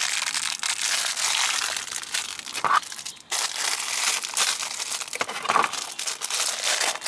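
Close-up crinkling and crackling handling noise, like crumpled plastic or paper being worked by hand, with a short squeak twice.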